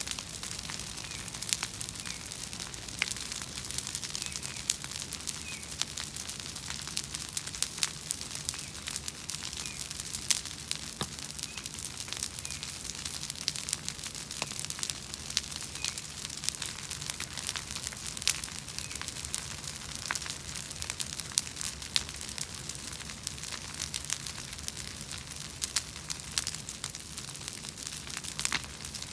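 Bonfire of invasive weeds burning, crackling with a dense, irregular run of sharp pops.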